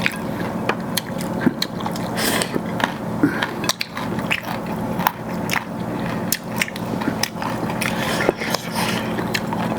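Close-miked eating: biting and chewing with many irregular wet mouth clicks and smacks, as chicken in gravy and rice are eaten.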